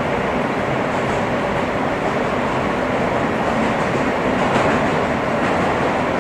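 Inside an R160 subway car running between stations: the steady rumble and rush of the train's wheels on the rails, swelling slightly about four and a half seconds in.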